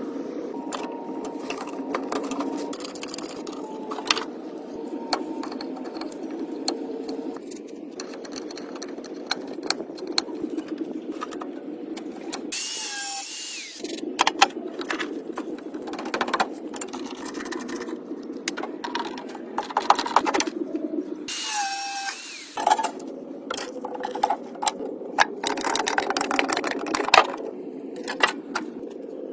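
Workshop tool noise: a steady mechanical hum with many clicks and knocks, broken twice by a short loud hissing burst, about halfway through and again two thirds of the way in.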